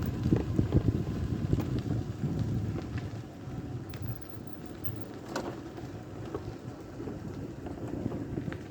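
Wind buffeting the microphone: a low, gusty rumble that eases after the first few seconds, with a few faint scattered clicks.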